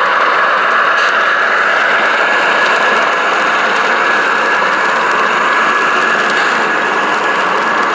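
Model train running on the layout: a steady, loud rolling and running noise, with a couple of faint clicks.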